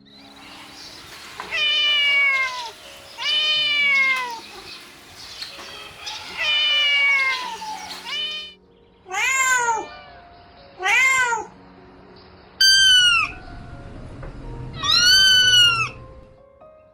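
Kitten meowing seven times, each mew about a second long. The first few fall in pitch; the later ones are shorter and rise before falling.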